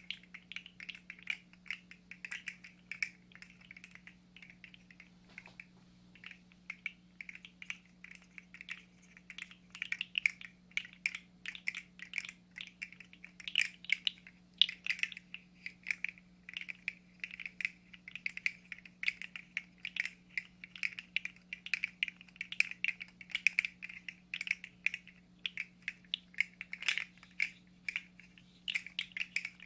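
Dense, irregular plastic clicking and clacking, several small clicks a second, over a faint steady low hum.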